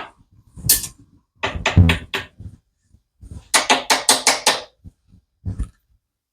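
Small hand deburring tool scraping and clicking against the cut end of a brake line as the inside of the tube is deburred. There are a few separate strokes, then a quick run of about half a dozen near the middle, then one more.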